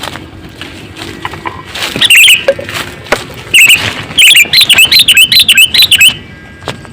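Sooty-headed bulbul (kutilang) calling loudly. A short burst of warbling calls comes about two seconds in and another just before the middle, then a fast run of repeated calls lasts about two seconds and stops near the end. Faint light clicks are heard before the first calls.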